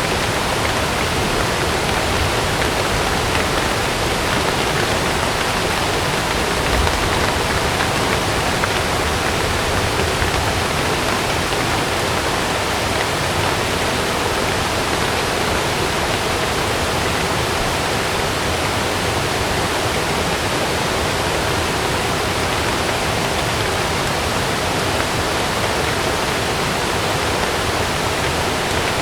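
Heavy rain and rushing water: a steady, even roar of water noise with no breaks.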